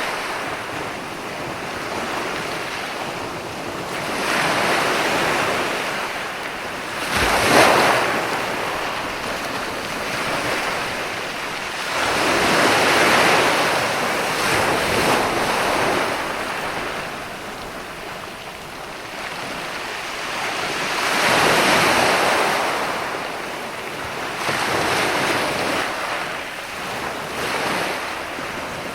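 Sea waves breaking and washing up onto a beach, swelling and ebbing every few seconds, with the sharpest break about seven seconds in.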